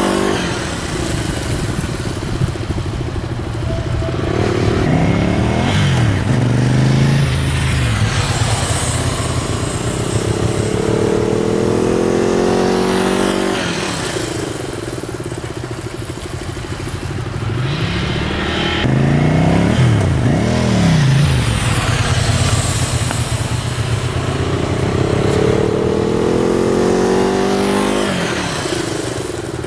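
Motorcycle engine accelerating and easing off over and over during low-speed riding drills, its pitch climbing and falling several times.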